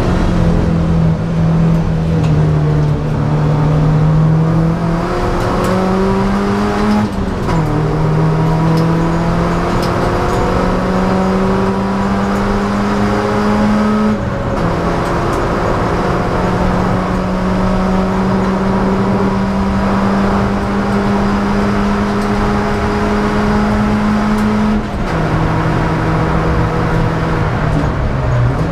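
Four-cylinder engine of a Ford Laser KQ track car, heard from inside the cabin, pulling hard with its note climbing steadily. It drops sharply at gear changes about seven and fourteen seconds in, and falls again about twenty-five seconds in.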